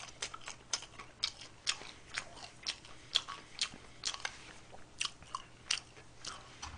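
A person chewing a mouthful of fast food close to the microphone: wet, crunchy mouth clicks and smacks, about two or three a second.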